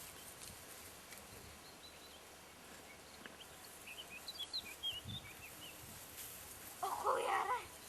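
Quiet outdoor background with a few faint, high chirps in the middle, then a short spoken word near the end.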